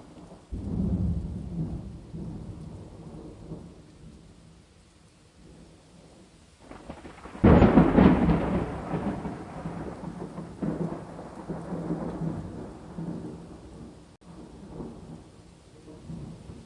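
Two peals of thunder over rain. A rumble begins about half a second in and dies away over a few seconds; then a louder, sudden crack about seven seconds in rolls on and slowly fades.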